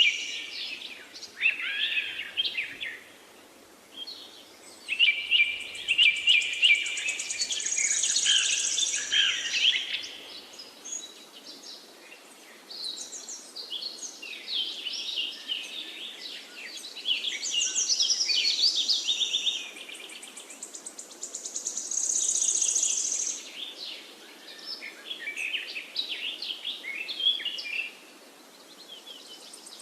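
Several songbirds singing at once: overlapping phrases of fast chirps and trills, coming and going in bouts of a few seconds.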